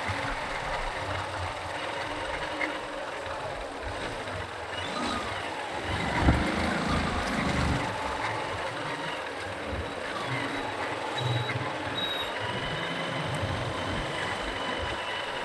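Road traffic heard from a moving motorcycle: steady engine and road noise, swelling louder for a couple of seconds about six seconds in.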